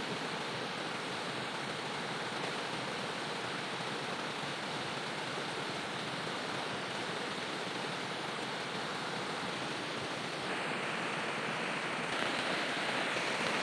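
Steady rushing noise of heavy rain together with a swollen, fast-flowing river in flood, a little louder in the last few seconds.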